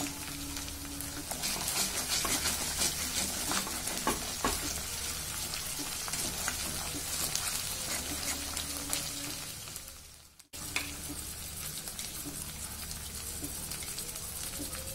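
Onion and cashew paste frying in oil in a metal kadai, sizzling steadily while a metal spatula stirs and scrapes the pan with scattered light clicks. The sound drops out for a moment about ten seconds in.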